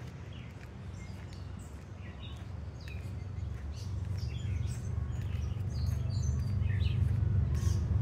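Songbirds chirping in woodland, many short high notes scattered throughout, over a low rumble that grows steadily louder through the second half.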